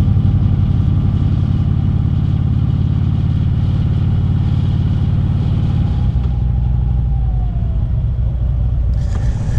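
Motorcycle engine running steadily while riding, a low rumble, with a shift in the engine note about six seconds in.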